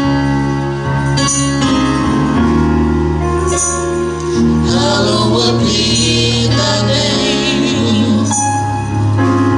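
Gospel song: singing over instrumental accompaniment with long held bass notes.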